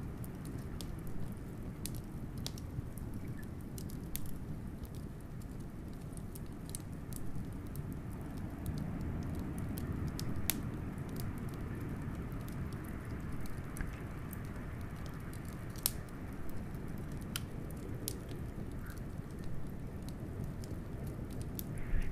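Wood fire crackling with scattered sharp pops and snaps, over steady low blizzard wind noise.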